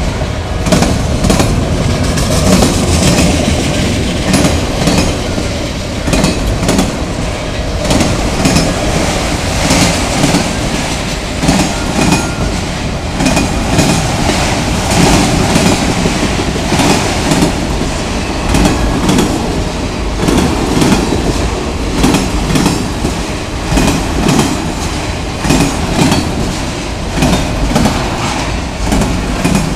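Freight train of autorack cars rolling past, steel wheels clattering over the rail joints in a continuous run of clicks over a steady rumble.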